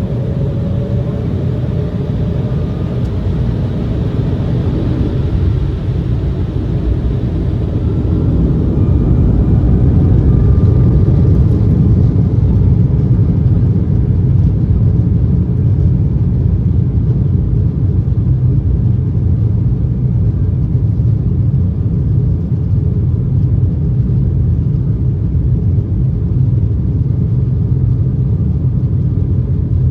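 Embraer 190 airliner's GE CF34 turbofan engines running, heard inside the cabin as a loud, steady low rumble. Faint whining tones rise and fall in the first ten seconds, and the rumble grows a little louder about ten seconds in.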